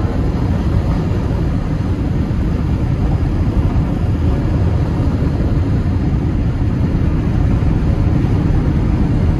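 Steady rumbling wind and road noise inside a moving Ferrari 360 Spider, with the engine held low and barely heard beneath it; a faint steady engine note comes through near the end.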